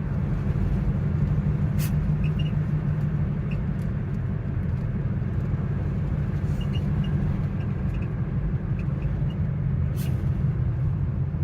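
Cabin road and engine noise of a 2012 Mazda CX-9 while driving, a steady low rumble, with faint short high squeaks now and then: the squeak coming from the dashboard. Two brief clicks, one about two seconds in and one near the end.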